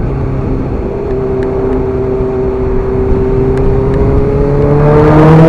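Suzuki GSX-R sport bike's engine running at a steady cruise, then accelerating from about three and a half seconds in, its note rising in pitch and growing louder.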